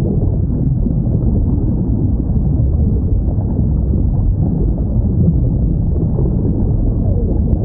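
Underwater recording of whales: a steady low wash of sea noise, with a few faint whale calls gliding in pitch.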